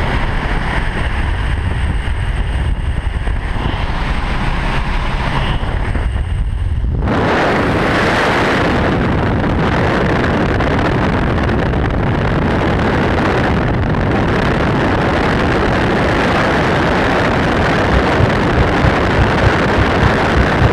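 Low rumble that about seven seconds in jumps suddenly to a loud, steady rush of wind on the microphone, typical of a skydive's exit into freefall.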